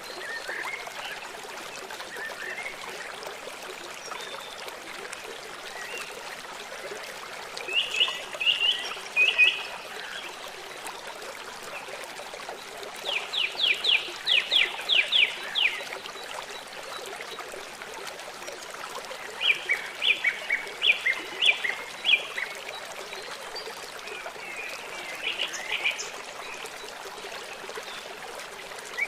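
A songbird singing short phrases over the steady rush of a running stream. It sings four phrases, about 8, 13, 19 and 25 seconds in. The loudest is a quick run of about ten repeated high notes.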